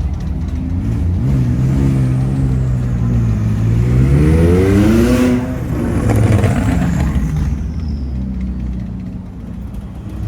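McLaren supercar engine accelerating past, its pitch climbing steadily for about four seconds, then breaking off sharply about halfway through, as at a gear change or lift-off. A lower, steadier engine drone follows.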